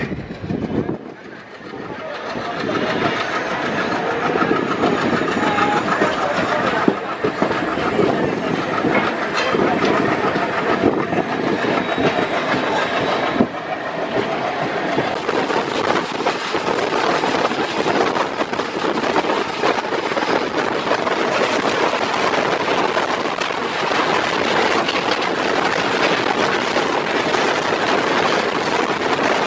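Indian Railways passenger train running on the track: a steady, loud running noise with occasional clicks from the wheels, swelling over the first few seconds and then holding level.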